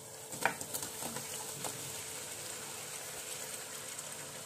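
Spiced masala sizzling steadily in a non-stick pan as chicken pieces are added, with a few faint clicks in the first two seconds.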